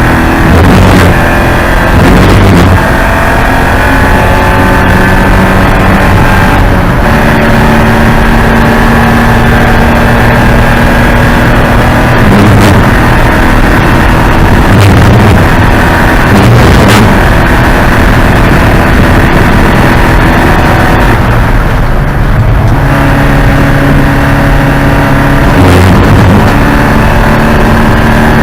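Porsche 944 Spec race car's four-cylinder engine running hard under load, heard loud from on board, its note stepping in pitch at several gear changes through the stretch.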